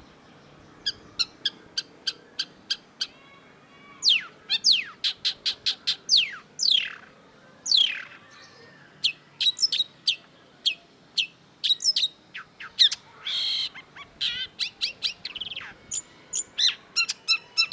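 Long-tailed shrike singing a fast, varied song: strings of sharp clipped notes, several whistles sliding downward in pitch, and a brief harsh rasping note about two thirds of the way through.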